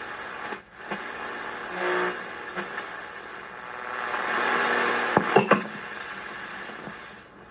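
Hallicrafters S-108 shortwave receiver hissing static through its speaker as it is tuned between stations, with a brief tone near two seconds. The hiss swells around four seconds in, and a few sharp crackles or clicks come about five seconds in.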